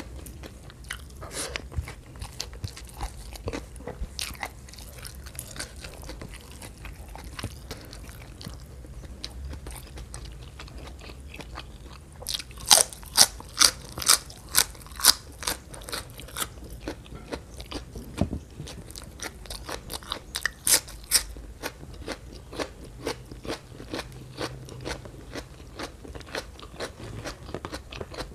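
Close-miked eating sounds: a person biting and chewing raw winged bean, with soft chewing and mouth clicks throughout. About halfway through comes a run of loud crisp crunches, roughly three a second for a few seconds, and a few more come a little later.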